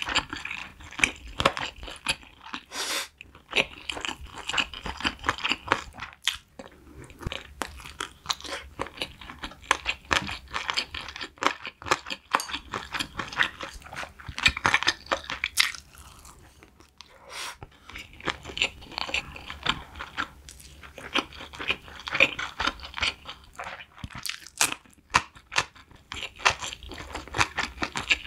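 Close-miked chewing: a person chewing and crunching food in quick, irregular clicks and crackles, with a quieter lull about two-thirds of the way through.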